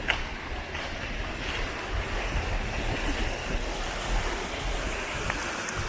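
Rushing creek water, with wind buffeting the microphone in low rumbling gusts and a sharp click right at the start.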